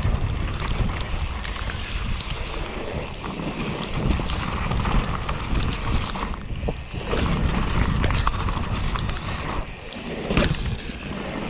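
Mountain bike riding down a wet, muddy trail: wind rushing over the microphone, tyres rolling through mud and water, and the bike rattling with many sharp clicks. There are brief lulls about six and a half and ten seconds in.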